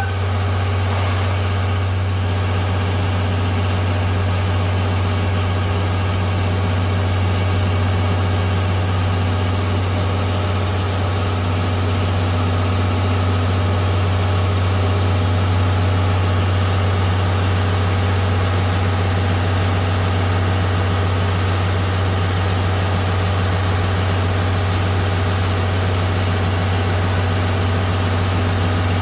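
Steady low hum of running machinery heard inside a passenger train coach, even throughout with no rail clicks or knocks.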